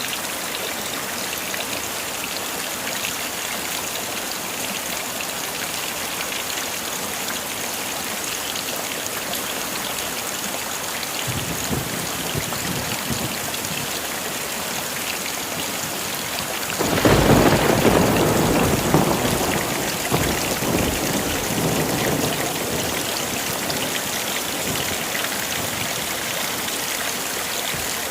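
Heavy rain falling steadily. A faint roll of thunder comes partway through, then a louder thunderclap a little past halfway rumbles on and fades over about five seconds.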